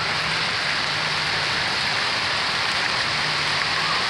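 A spring hailstorm of pea- and marble-sized hail mixed with rain, falling steadily as a dense, even patter. A faint low hum sits underneath.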